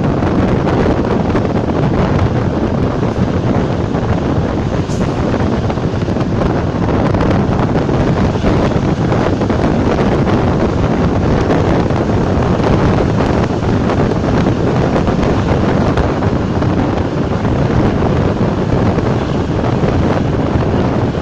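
Steady running noise of a ČD class 460 electric multiple unit moving at speed, with wind buffeting the microphone.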